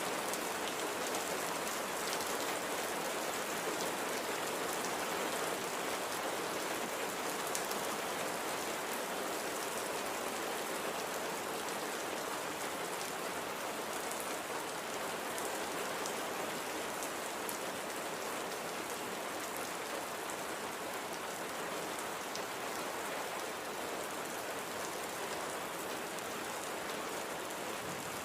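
Steady light rain falling, an even hiss with scattered individual drops ticking on a surface.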